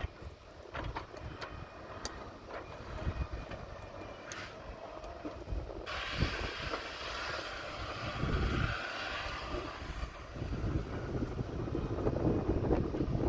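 Heavy diesel machinery running with a low rumble and scattered knocks and clunks. A hiss starts suddenly about six seconds in and lasts about four seconds.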